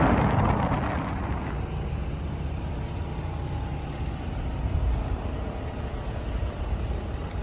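A vehicle driving, with a steady low rumble of engine and road noise. A louder rushing hiss in the first second fades away.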